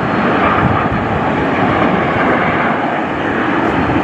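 Jet aircraft flying over, a loud, steady rush of engine noise.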